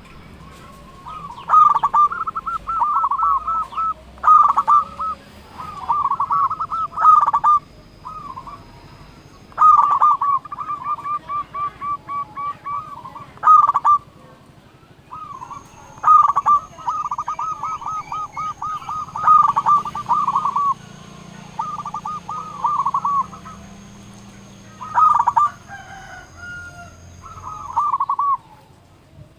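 Zebra dove (perkutut) cooing: burst after burst of quick staccato coos in rapid runs, with short pauses between phrases.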